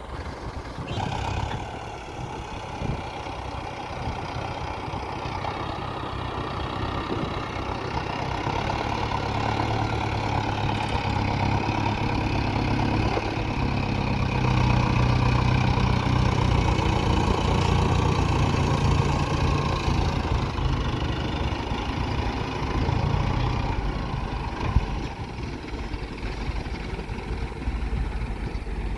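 Heavy diesel machinery engine running steadily. It builds in loudness through the middle of the stretch, as if working under load, then eases back toward idle in the last few seconds.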